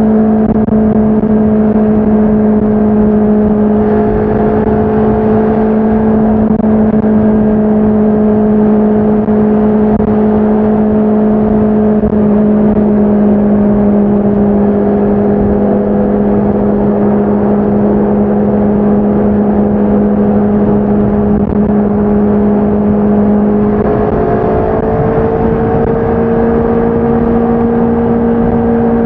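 Honda CBR650R's inline-four engine and exhaust running under way at a steady, fairly high engine speed, its pitch sagging slightly, then stepping up a little near the end.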